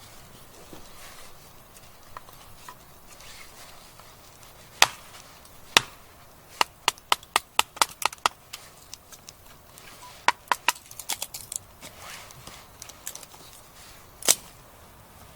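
Firewood being split by batoning: a wooden baton strikes the spine of a Condor Nessmuk knife, driving it through the log with sharp wooden knocks. There are two single hard strikes, then a quick run of about a dozen lighter taps, another burst of strikes, and one last hard knock near the end.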